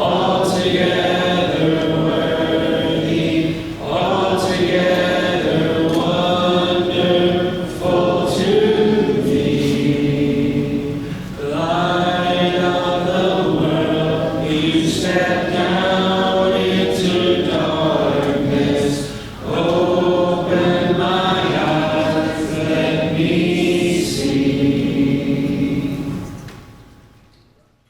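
Congregation singing a hymn a cappella, many voices together with no instruments; the last held note fades out near the end.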